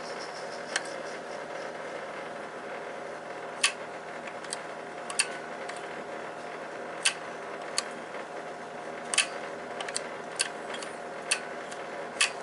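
Steady mechanical hum from machinery in a boiler room, with a dozen or so sharp, irregular clicks and taps of metal parts being handled.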